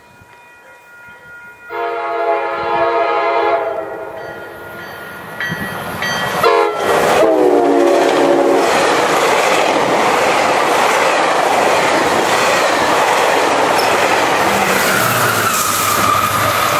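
GO Transit commuter train sounding its horn for a level crossing: a long blast, a short one and a final long blast that drops slightly in pitch as the cab car goes by. Then the bi-level coaches pass with a steady rush and wheels clacking on the rails, and the diesel locomotive pushing at the rear passes near the end.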